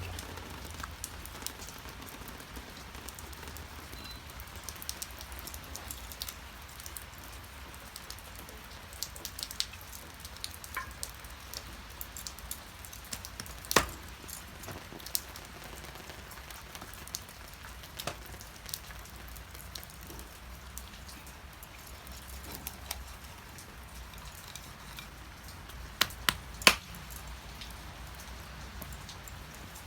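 Steady light rain, with drops pattering and ticking on nearby surfaces. A few sharp knocks stand out: one about halfway through and three in quick succession near the end.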